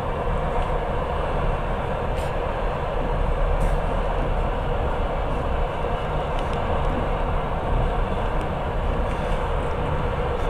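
Passenger train running steadily at speed, heard from inside the carriage: a continuous rumble and rush of wheels on rails, with two faint clicks in the first few seconds.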